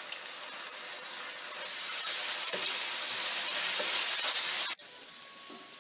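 Onions and garlic-ginger paste frying in hot oil in a pan, a steady sizzle that grows louder about two seconds in and drops suddenly to a quieter sizzle near the end.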